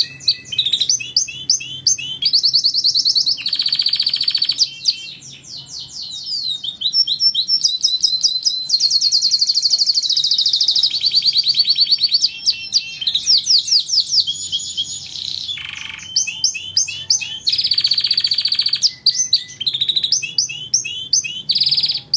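Domestic canary singing a long, fast song of rapidly repeated high trills and chirps that change from phrase to phrase.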